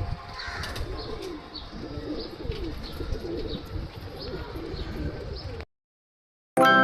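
Pigeons cooing over and over, with faint high chirps and a low rumble underneath. The sound cuts off suddenly near the end, and after a brief silence music starts.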